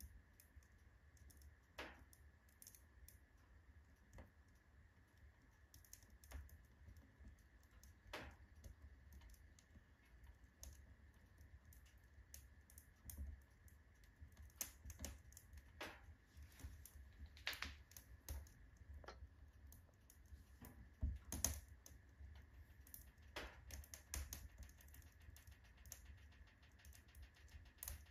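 Firewood crackling in a wood-burning stove: faint, irregular pops and ticks, with a few sharper snaps around the middle.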